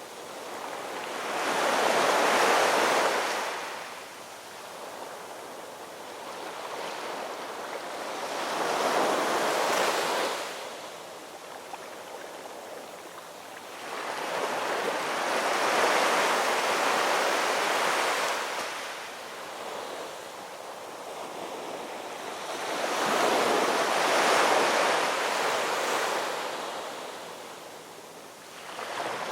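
Ocean waves breaking and washing in, four of them in turn, each swelling up and fading away about every seven seconds.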